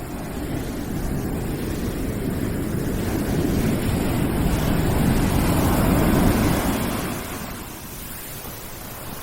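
Rushing background noise from a white-noise sleep/study track. It swells gradually to a peak about six seconds in, then eases back down to a lower steady level, like a wave or gust surging and receding.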